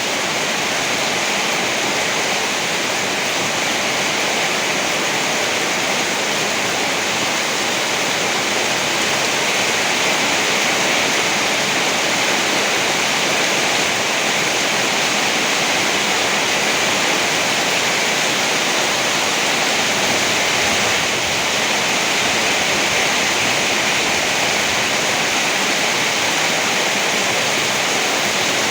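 Rain falling steadily, an even hiss without pauses or thunderclaps.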